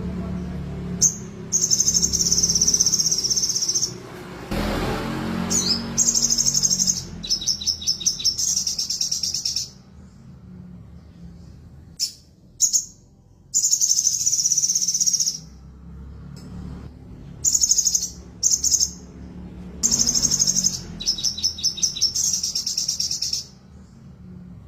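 Crimson sunbird (sogon) singing: high-pitched, rapid trilling phrases lasting a few seconds each, repeated with short pauses between.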